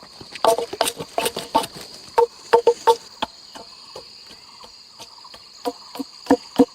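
Sharp, irregular wooden knocks of a hand tool striking wood, each with a short ringing tone, coming in quick clusters with a lull in the middle. A steady high insect chirr, like crickets, runs underneath.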